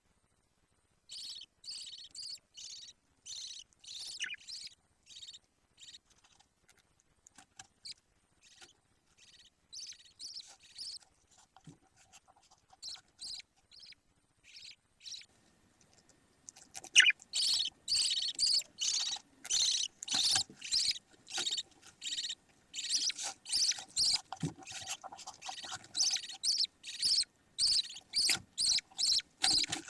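Budgerigar chicks calling in short, quickly repeated high calls, about three a second. The calls start about a second in and grow louder and busier about halfway through.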